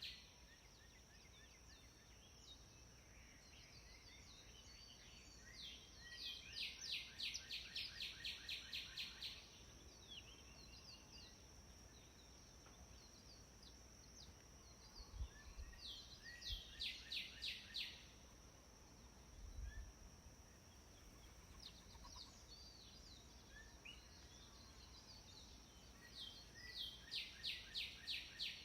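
A songbird singing three phrases, each a rapid run of repeated high notes lasting a few seconds, over a steady high-pitched whine and faint outdoor background noise.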